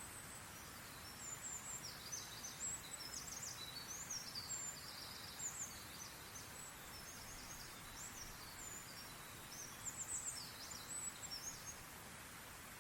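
Songbirds singing in rapid high chirps and trills, in a long bout over the first half and a shorter one near the end, over a steady soft background hiss.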